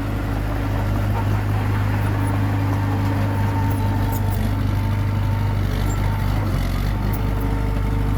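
Diesel engine of a Komatsu D21P bulldozer running steadily with a constant low drone.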